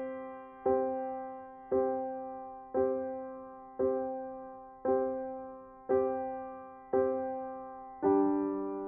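Background music: soft keyboard chords, each struck about once a second and fading before the next.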